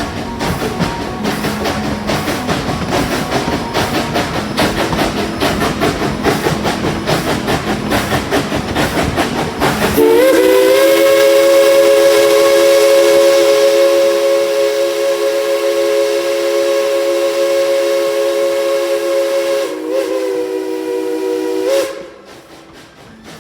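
Steam locomotive chime whistle blowing one long, loud blast of several notes together for about ten seconds, dipping briefly and sounding once more before cutting off. Before it comes about ten seconds of dense, rapid clatter.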